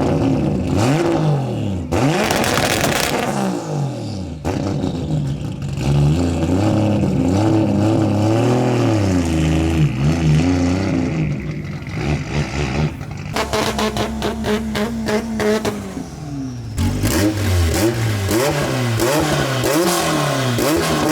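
A 2JZ-swapped Nissan S14's straight-six engine being revved over and over, its pitch climbing and dropping with each blip.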